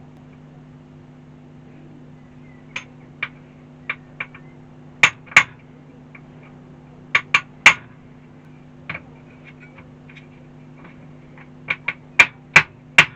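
Sharp clicks and clinks of small tools and metal parts handled on a workbench while a shock absorber is taken off an RC car, coming in clusters about 5, 7 and 12 seconds in, over a steady low hum.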